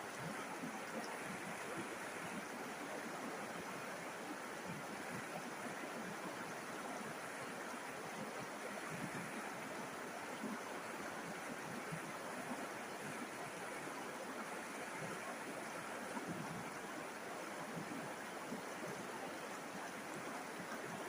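River water flowing: a steady, even rush of water with no breaks or changes.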